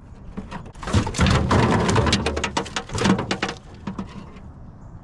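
A mudfish (bowfin) thrashing. It makes a rapid flurry of wet slaps and splashes for about two seconds, then dies down to a few weaker ones.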